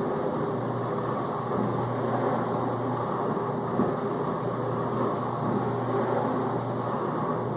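Whirlpool dishwasher in the main-wash circulation stage: the circulation pump runs steadily with a low hum under a constant wash of spraying water, with a few brief louder knocks, one about halfway through.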